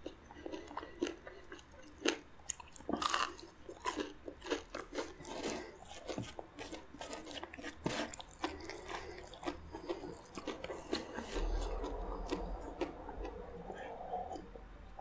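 Close-miked eating: crunchy bites and chewing of a crisp-coated fried piece, in many sharp crunches. Near the end, a steadier stretch as he drinks water from a glass.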